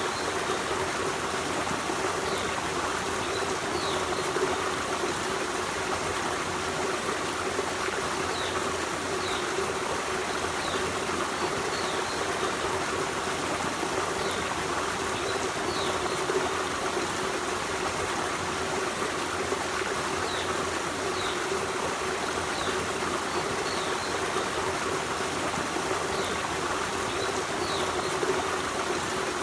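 Forest stream running steadily, an even rushing of water with no break, with faint short high sounds scattered through it.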